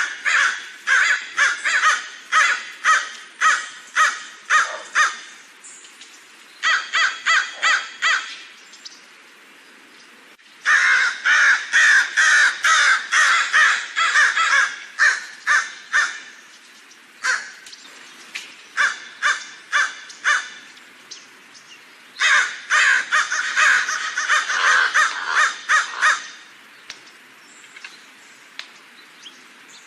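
Crows cawing: rapid series of harsh, repeated caws in several bouts, separated by short pauses of a second or two.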